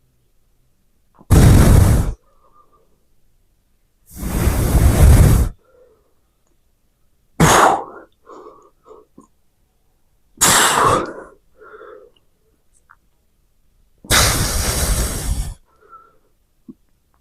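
A man's hard exhalations blown out with each rep of dumbbell skull crushers, five loud breaths about three seconds apart, buffeting the microphone.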